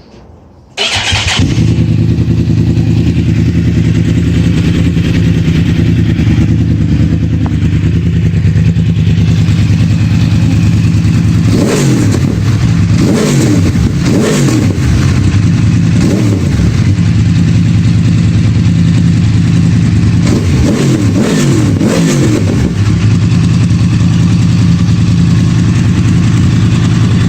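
2014 Yamaha R1's crossplane inline-four breathing through a GPR aftermarket exhaust: it starts up about a second in and idles loud and steady. Twice it is revved with a few quick throttle blips, near the middle and again later, before settling back to idle.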